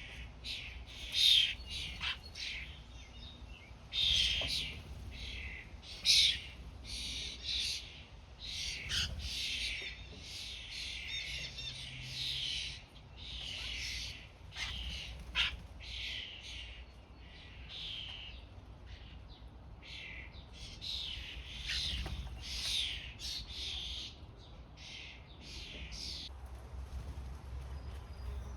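Wild songbirds singing and calling, a steady run of short, high-pitched phrases and chirps with little pause between them.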